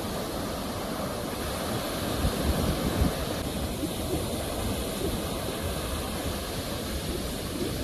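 Sea waves breaking and washing ashore in a steady rush of surf, with a slightly louder surge about two to three seconds in.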